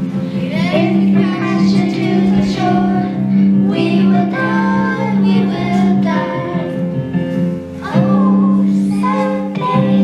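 Children singing an opera number over instrumental accompaniment.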